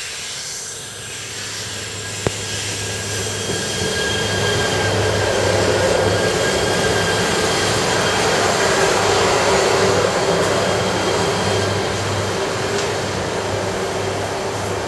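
An E3 series Shinkansen electric train running into the platform as its cars pass close by. A steady high whine rides over the rushing noise and a pulsing low rumble, all growing louder toward the middle, with one sharp click about two seconds in.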